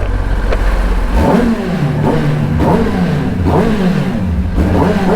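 Superbike engine running while riding, its pitch sweeping up and down several times, about once a second, as the throttle is opened and eased off.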